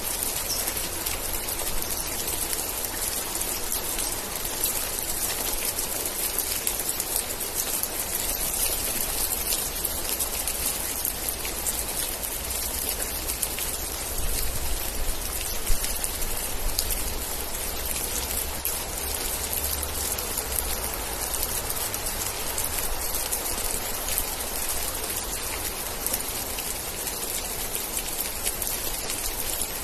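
Steady rain: a constant hiss of falling rain with a dense patter of individual drops, and a low rumble underneath.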